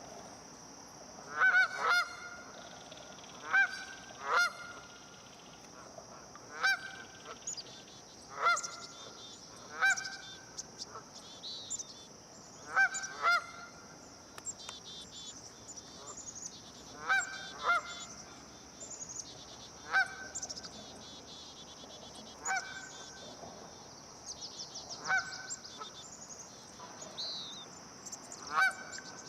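Geese honking: loud single honks repeated every one to three seconds. Small birds chirp and trill faintly and high-pitched in between.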